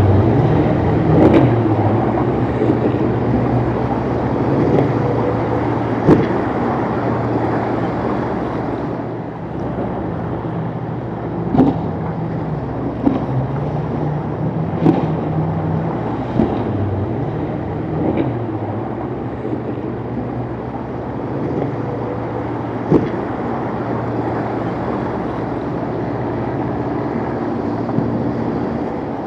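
Boat engines running through choppy water, their pitch shifting up and down as the throttle changes, over a steady wash of water and wind. Several sharp knocks come at irregular moments.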